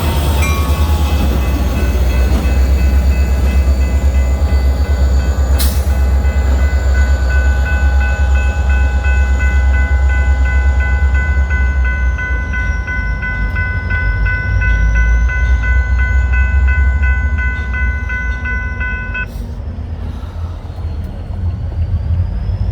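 EMD GP40-2 diesel locomotives running with a steady deep rumble, while a bell rings in even repeated strikes and stops abruptly about nineteen seconds in.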